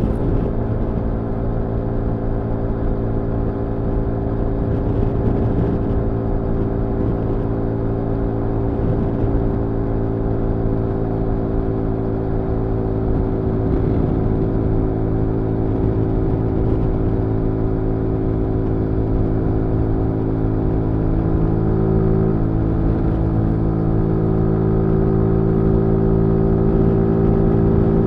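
Zontes G1 125 Scrambler's single-cylinder 125 cc engine running at steady revs while riding, with a slight shift in pitch about three quarters of the way through.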